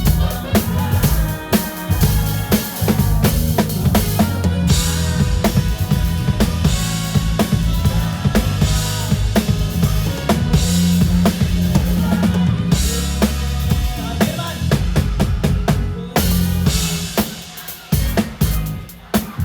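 Drum kit played in a live band, heard up close: kick drum, snare and rimshots on a steady beat over the bass and the rest of the band, with cymbal washes now and then. The music drops quieter for a moment near the end.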